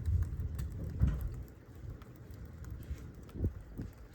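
Low rumble of thunder dying away over the first second and a half, then light rain pattering with a few soft knocks.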